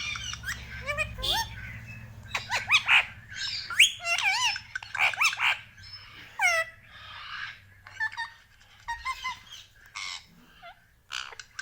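Pet Indian ringneck parakeet giving a series of short, sharp calls that glide up and down in pitch, with brief pauses between them.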